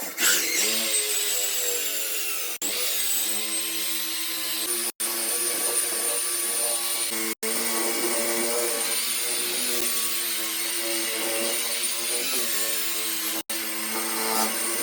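Electric power tool running with a steady high whine while working against a surface, starting suddenly and broken off for an instant four times.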